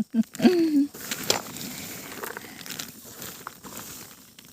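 Rustling and crackling with scattered small clicks for about three seconds, after a brief voice-like sound at the start.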